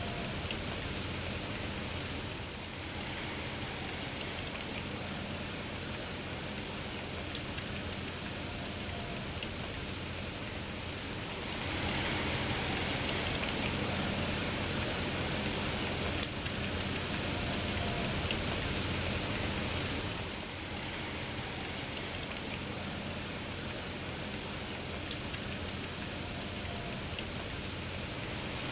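Steady rain falling, growing heavier for several seconds in the middle, with a few single sharp drip ticks standing out.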